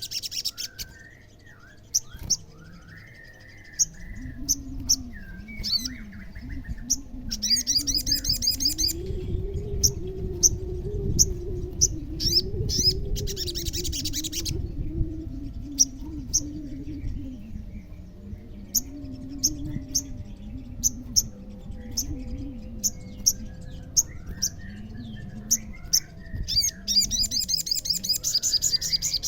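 Olive-backed sunbird singing: sharp high chips repeated throughout, broken by three fast rattling trills of a second or two each, the last near the end. A low wavering hum runs underneath through the middle.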